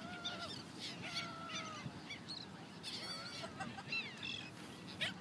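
Several birds calling over one another, mixing drawn-out calls of nearly a second with shorter high chirps and quick falling notes.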